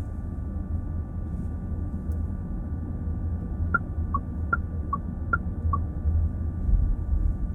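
Car cabin noise while driving: a steady low road and engine rumble. About four seconds in come six short electronic beeps, alternating high and low, in three quick pairs.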